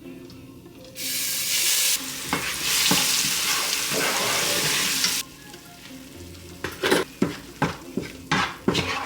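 Food frying in hot oil in a pan: a loud sizzle that starts suddenly about a second in, lasts about four seconds, and cuts off abruptly. After a pause comes a quick run of knocks and scrapes, about three a second, from a utensil stirring in the pan.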